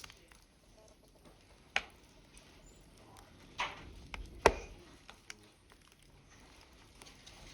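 Burning logs crackling in a wood fire: a low steady hiss broken by a few sharp snaps, the loudest about four and a half seconds in.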